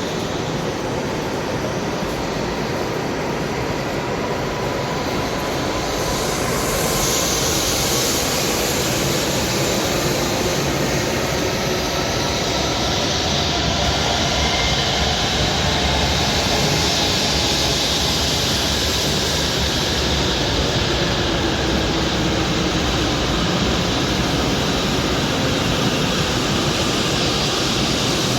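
Shinkansen train noise: a steady rushing hiss and rumble that grows louder about six seconds in.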